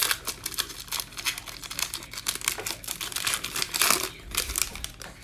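Foil trading card pack wrapper crinkling and tearing as it is opened, many small irregular crackles, loudest about four seconds in.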